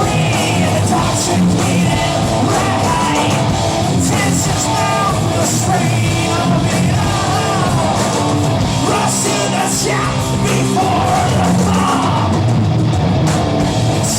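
Heavy metal band playing live at full volume, with a singer shouting and singing over the band.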